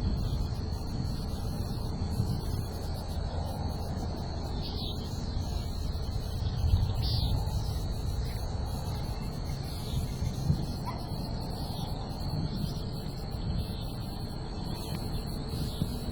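Wind rumbling on the microphone, with a bird chirping briefly now and then, five or six short calls, over a steady high-pitched tone.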